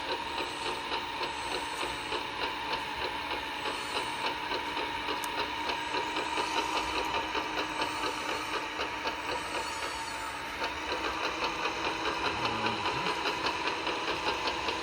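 An RC model truck running steadily: a constant electric whine with a fast, even mechanical pulsing over it.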